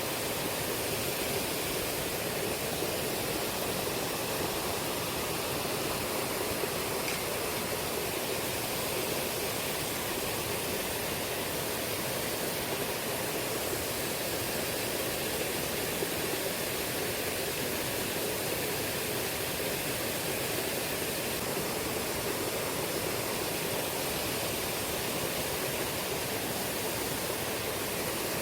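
Steady rushing of a shallow river's fast current.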